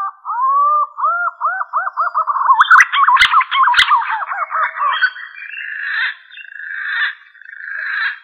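Green pigeon (punai) calling: a run of whistled, arching notes that come faster and faster, then longer wavering whistles. Two sharp clicks about three and four seconds in.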